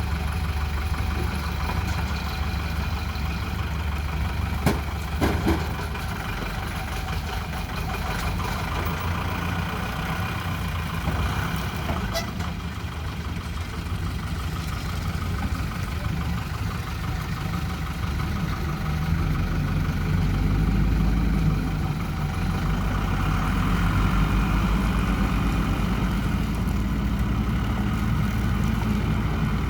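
Diesel engines of a JCB 3DX Super backhoe loader and a Tata 407 tipper truck running as the loader tows the truck. The low engine note grows stronger and louder from about twenty seconds in, and there are a few sharp knocks about five seconds in and again near twelve seconds.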